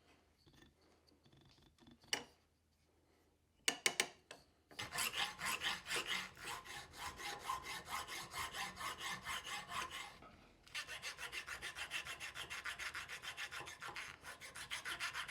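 Hand filing in quick, even strokes. A few light clicks come first, the filing starts about five seconds in, pauses briefly about ten seconds in, and then resumes.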